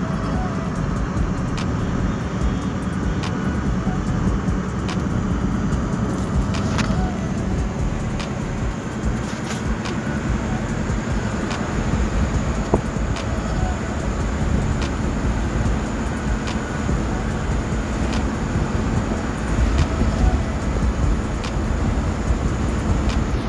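Car in motion heard from inside the cabin: a steady low road and engine rumble, with faint regular ticks about every second and a half to two seconds.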